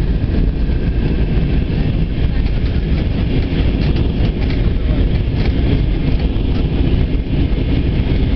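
Steady, loud rumble of engine and airflow noise inside the passenger cabin of a Wizz Air Airbus A320 in flight, with a few faint ticks over it.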